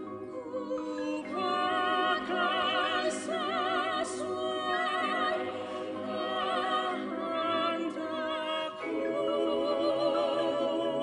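Singing in long held notes with a wide vibrato, in a classical or choral style.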